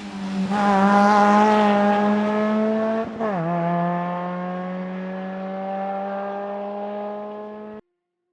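Rally car engine at high revs, accelerating past and away. The pitch drops at an upshift about three seconds in, then climbs again as the sound fades. It cuts off abruptly near the end.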